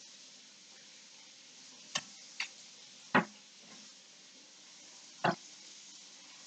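Four sharp knocks, like a knife striking a cutting board while a whole chicken is cut into parts. The third and fourth are the loudest, and a faint steady hiss runs underneath.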